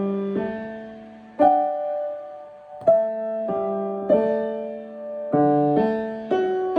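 Piano played slowly: about eight chords and notes struck one after another at uneven spacing, each left to ring and fade before the next.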